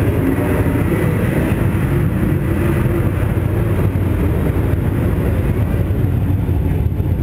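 Race car's engine idling steadily, heard close up from inside the car, with a dense, even low rumble and no revving.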